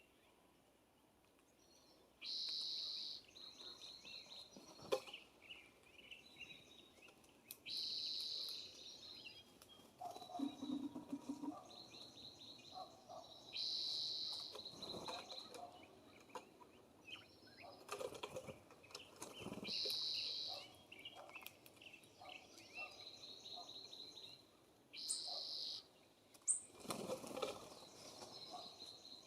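A songbird sings the same short, high phrase five times, about every five to six seconds, each phrase trailing off into fainter notes. Scattered soft taps and rustles come from between the phrases.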